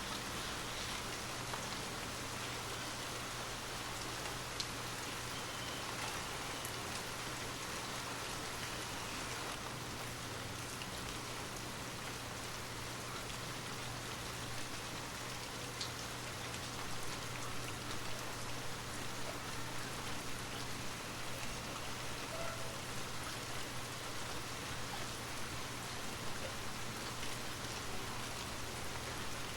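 Steady rain falling, an even hiss with scattered drop ticks that grow a little busier about halfway through, over a low steady hum.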